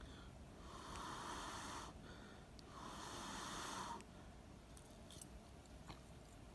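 Two long, faint breaths blown out, each about a second long, from someone cooling a mouthful of very hot pasta bake.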